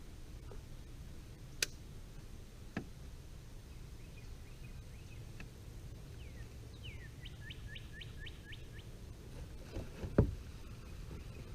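Steady low rumble with a couple of light clicks, then a bird calling a quick run of about six falling chirps in the middle, and a single low thump near the end, the loudest sound here, on or against the kayak.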